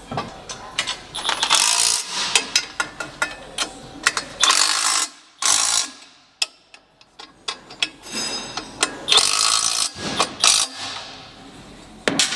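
Hand ratchet wrench clicking in quick runs as nuts are run down on the exhaust, in several bursts with a pause about halfway through.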